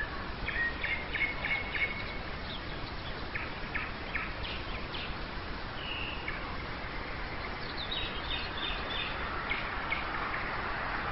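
Nightingale singing at dawn: short separate phrases of rapid repeated notes and a clear whistle, with pauses between them, over a steady background hum.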